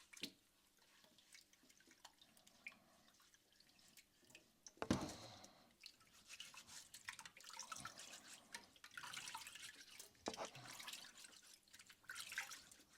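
Uncooked rice being washed by hand in a pot of water: faint swishing and dripping water, with a louder knock or splash about five seconds in.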